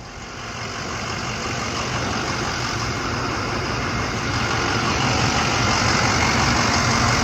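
Box truck running, its engine and road noise growing steadily louder over the first few seconds and then holding.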